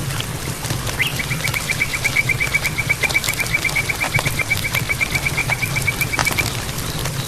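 A frog calling in one long, even trill of about nine pulses a second, starting about a second in and stopping near the end. A steady low hum runs beneath it.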